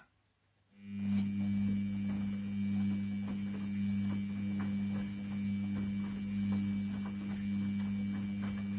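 Washing machine running: a steady electrical hum from its motor with a thin high whine over it, and light scattered ticks from the drum. It starts abruptly about a second in.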